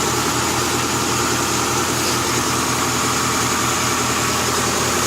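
Honda B16A2 1.6-litre DOHC VTEC four-cylinder, built with forged pistons and rods, idling steadily and smoothly on its first start-up after the swap.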